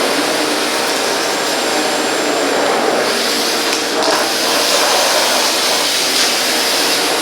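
Bosch Series 2 BGC05AAA2 bagless canister vacuum cleaner running, a steady rushing of motor and suction noise.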